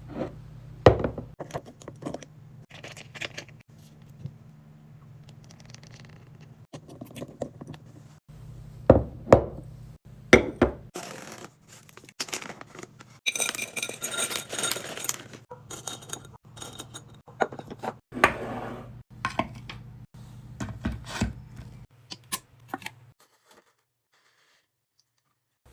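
Close-up, irregular tapping, clicking and scraping of small hard objects, with a denser rustling scrape for a couple of seconds in the middle, over a low steady hum; it falls almost silent near the end.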